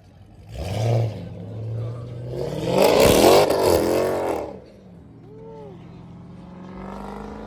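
A car engine revving hard, its pitch climbing and falling, loudest about three seconds in. It then drops back to a quieter steady run that slowly rises in pitch near the end.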